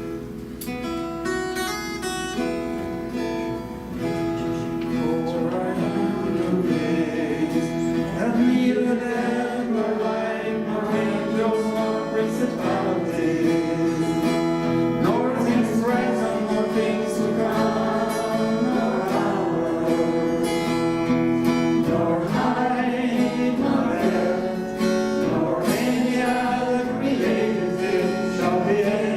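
A worship song played on acoustic guitar, with voices singing along.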